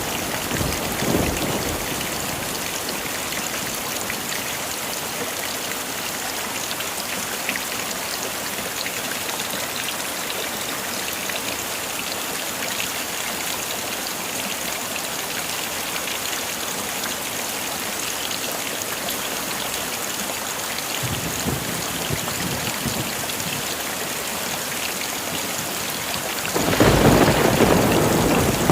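Heavy rain falling steadily as an even hiss. A low rumble of thunder fades out in the first second or two, a faint rumble comes in about three quarters of the way through, and a louder thunder rumble swells up near the end.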